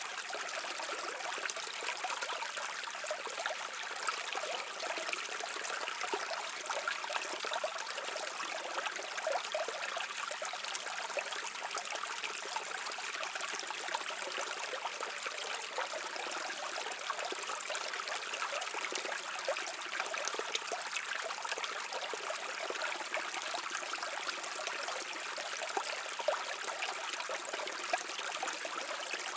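A shallow stream running steadily, water trickling and splashing over rocks with a bright, hissing sound and little bass.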